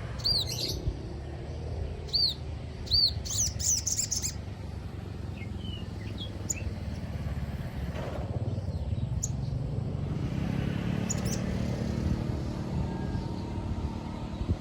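Sogon bird calling: a quick series of short, arched chirps, then a rapid twittering burst about three to four seconds in, followed by a few scattered faint notes. A low rumble swells in the background through the second half.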